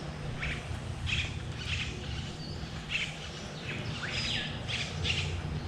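Birds calling: a steady run of short chirps and quick downward-sliding calls, about two a second, over a low background rumble.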